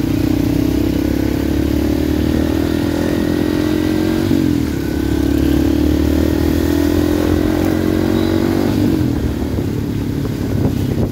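Motorcycle engine under way, its note climbing as it accelerates. About four seconds in the pitch drops back, as at a gear change, then rises again before the throttle eases off near nine seconds. Low road and wind noise runs underneath.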